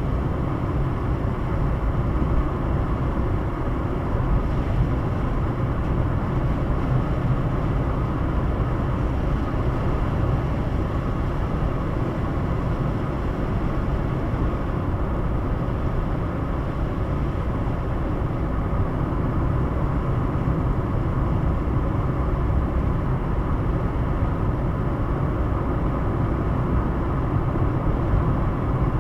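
Steady road and engine noise of a car driving at speed, heard from inside the cabin: an even low rumble with no changes.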